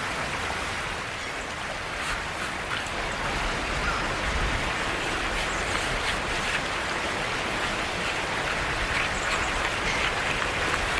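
Steady rushing of water at a river's falls, an even wash of noise with no let-up.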